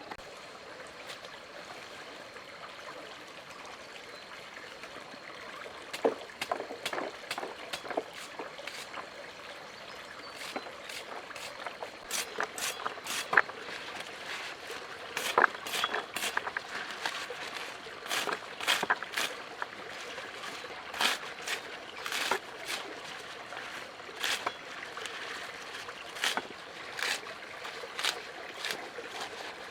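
Water trickling steadily, with irregular short splashes or clicks starting about six seconds in and coming often through the rest.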